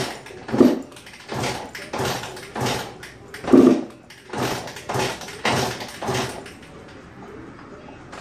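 A 1996 Suzuki RM125 two-stroke engine being kick-started over and over, each kick turning the engine briefly without it catching, then a pause near the end. The engine is not starting, which the owner suspects is a carburettor problem.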